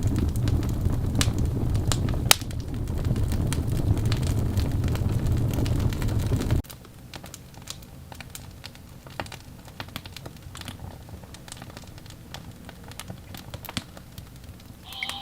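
Log fire crackling with sharp pops. A loud low rumble runs under it for the first six or so seconds and cuts off suddenly, leaving only quieter, sparse crackles.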